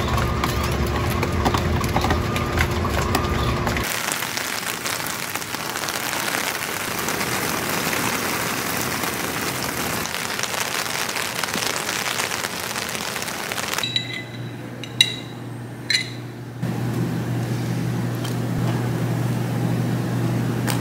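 Steady rain falling, an even hiss, after a low rumble in the first few seconds. Near the end the hiss drops away for two light ringing clinks a second apart, then a low steady hum.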